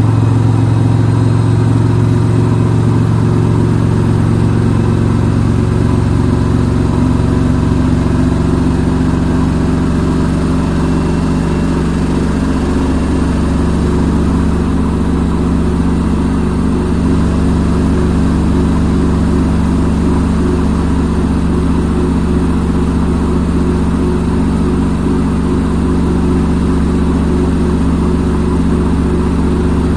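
Front-load washing machine in its spin cycle: a steady motor hum and drum whir with several low tones. The low tones shift in pitch over the first ten seconds or so, then hold steady.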